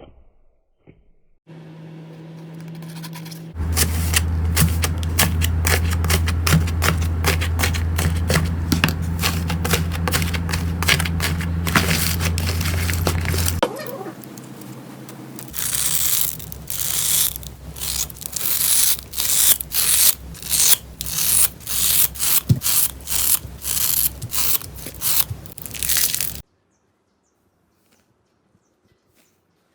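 Slime being squeezed and handled, with dense crackling and popping. Over a steady low hum, the crackle comes as repeated squishes about one or two a second in the second half, then stops abruptly.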